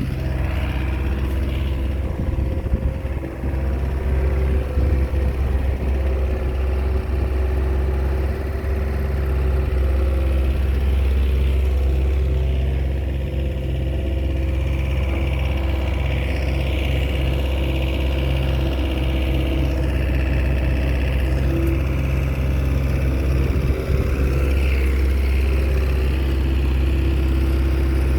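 Diesel engine of a small Komatsu crawler bulldozer running steadily while it works, a low, even drone.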